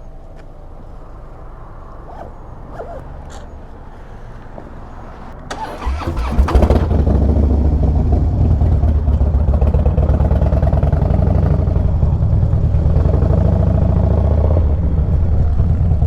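Motorcycle engine starting about six seconds in with a sudden jump in loudness, then running steadily and loudly, after a few light clicks and knocks.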